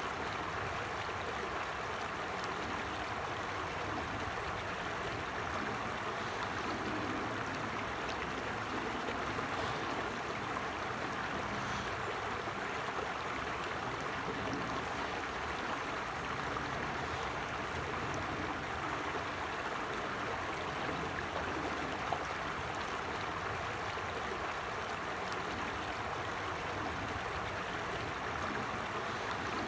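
A small stream flowing steadily over rocks: a constant rushing and babbling of water.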